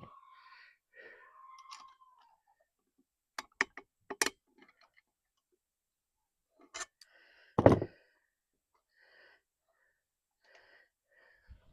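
Scattered sharp clicks and taps of hand tools and metal parts being handled during an outboard water-pump job, with one louder knock about two-thirds of the way through and faint scraping between.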